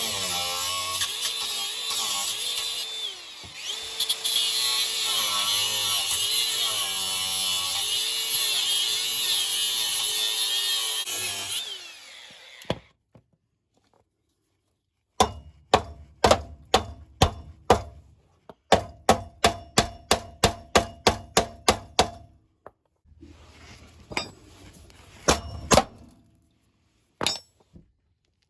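A power cutting tool runs under load, its pitch wavering, while it cuts through rusty exhaust-clamp bolts, then stops about twelve seconds in. After a short pause come two quick runs of metallic hammer strikes, about three a second, then a few single knocks.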